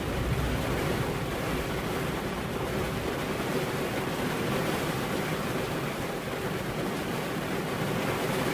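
Rain falling steadily, an even hiss with no distinct thunderclap.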